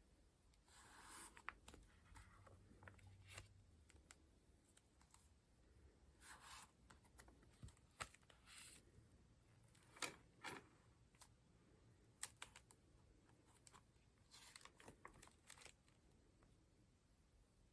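Paper pages of a collage notebook being turned one after another: soft, brief rustles of paper with light taps and clicks between them.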